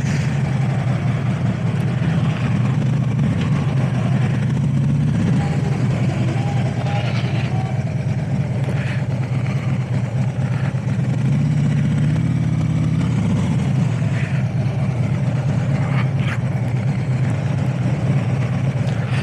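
Motorcycle engine idling steadily, briefly running a little higher about twelve seconds in.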